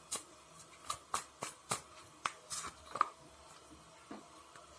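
Tarot cards being handled and shuffled: a series of sharp card clicks and snaps, about two or three a second, thinning out over the last second and a half.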